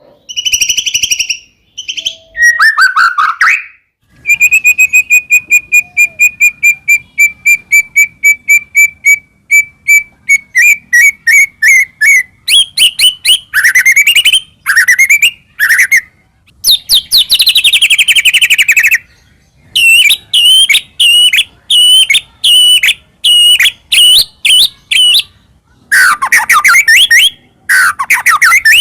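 White-rumped shama (murai batu) singing a long, varied song in full voice. It opens with a fast run of repeated notes lasting several seconds, moves into rising and falling sweeping whistles, and then gives quick series of higher repeated notes.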